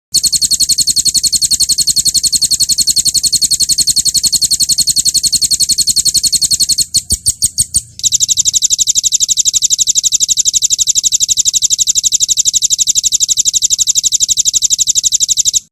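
Songbird singing a 'roll tembak' trill: a very fast, even run of sharp high repeated notes. About seven seconds in it breaks into a few slower notes, then the fast run resumes and stops abruptly near the end.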